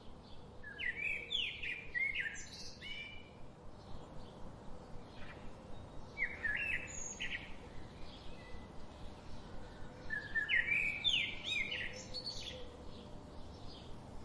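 A songbird singing three phrases of quick sweeping, warbling notes, one near the start, one about halfway and one near the end, with fainter chirps from other birds in between.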